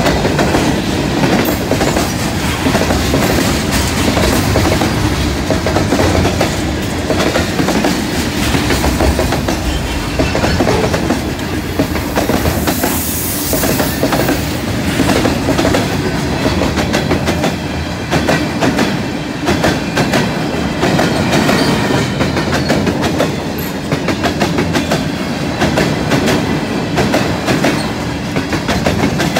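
Freight train of steel-coil cars rolling steadily past at close range, its wheels clicking over the rail joints.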